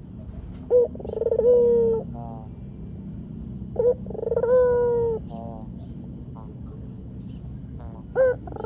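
White ringneck dove (puter putih) cooing. Each phrase is a short note, then a long coo that holds and falls slightly, then a quick rattling trill. The phrase comes twice, and a third begins near the end, over a steady low hum.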